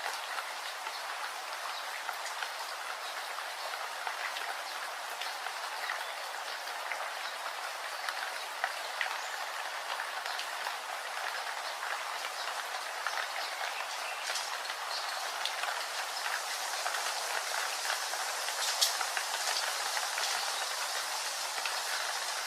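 Steady rain falling: an even hiss dotted with many small ticks of drops hitting a surface, with one sharper drop about 19 seconds in.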